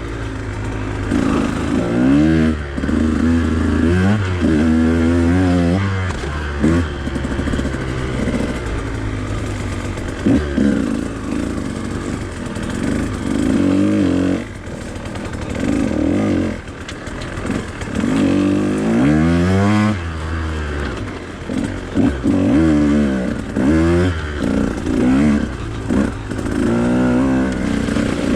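Husqvarna TE 150 two-stroke dirt bike engine under way, revving up and down over and over as the throttle is worked, its pitch rising and falling every second or two.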